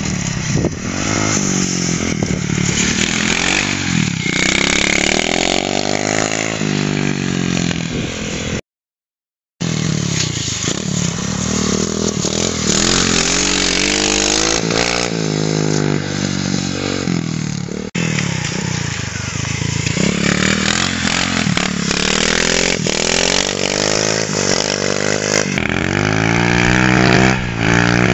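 Pit bike engine being ridden hard, revving up and falling back again and again as the throttle opens and closes through the corners. The sound cuts out completely for about a second near a third of the way through.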